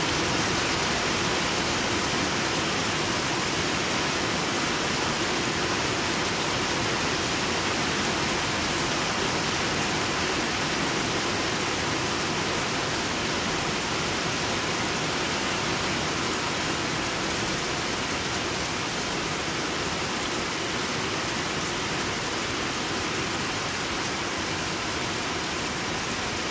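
Pouring rain: heavy rainfall making a steady, even hiss that holds at one level throughout.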